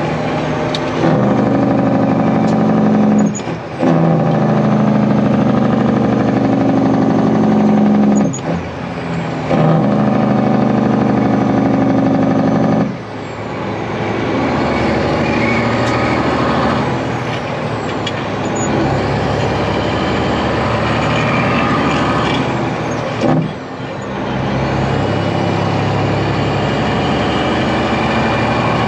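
A Kenworth truck's Detroit Diesel engine runs hard, heard from inside the cab. Its steady note breaks off briefly four times and comes back at a new pitch each time, as the driver changes gear.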